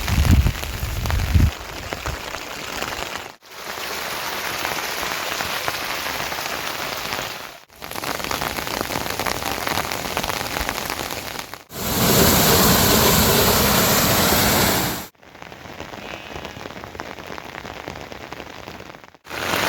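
Steady rain falling, heard in several short clips cut one after another, each a few seconds long with a brief silence between; the clip about twelve seconds in is the loudest. A few low thumps sound in the first second and a half.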